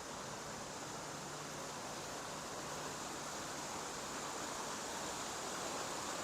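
Steady, even hiss of running water from small pools of a water feature, growing slightly louder towards the end.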